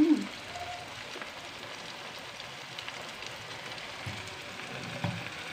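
Tomato-and-onion masala with sauces sizzling steadily in a frying pan over a gas flame.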